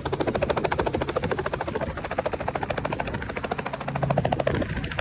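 Helicopter rotor blades chopping in a fast, steady beat as the helicopter comes in to land.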